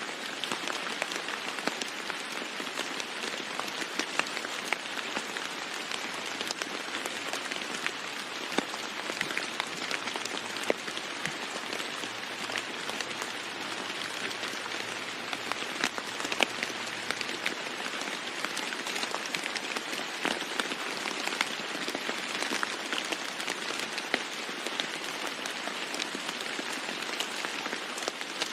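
Steady heavy rain falling on a roof, an even hiss with individual drops ticking sharply here and there.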